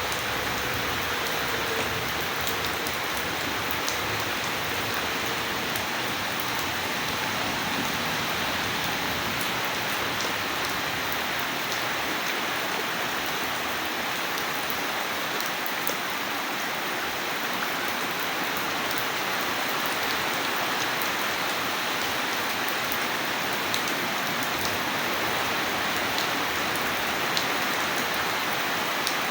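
Steady rain falling and hitting surfaces, an even hiss with scattered faint drip ticks.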